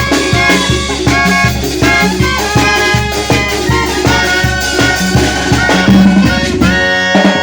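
Mexican banda brass band playing an up-tempo piece: trumpets and other brass over a steady, bouncing bass line. Near the end the band holds a long chord while the bass briefly drops out.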